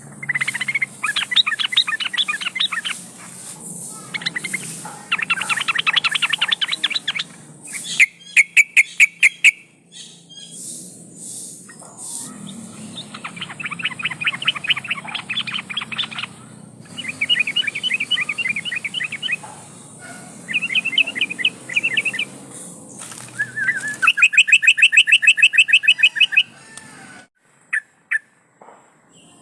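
Yellow-vented bulbul (trucukan) singing: repeated bursts of rapid notes, each a second or two long, separated by short pauses. A few sharp clicks sound about eight to nine seconds in.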